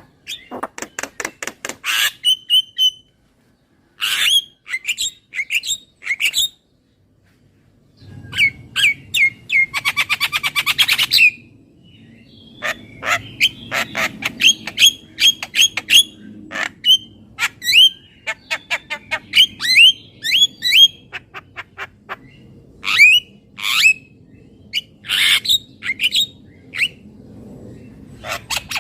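Javan myna calling: runs of short, harsh squawks and whistled notes repeated in quick series, with a fast rattle about ten seconds in. There are brief pauses near three and seven seconds, and a faint low hum lies under the later part.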